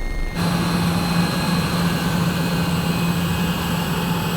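Cabin drone of the Cessna 414A's twin piston engines running steadily while taxiing, with a strong low hum. The sound changes abruptly, becoming louder and fuller, about a third of a second in.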